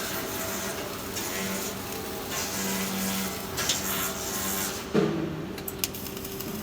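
Flux-cored arc welding on stainless steel: a steady crackling hiss from the arc that stops about five seconds in, followed by a few sharp clicks. A low hum comes and goes.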